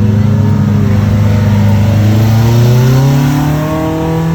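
A car engine running steadily, then revved so that its pitch rises smoothly about two and a half seconds in and holds at the higher speed.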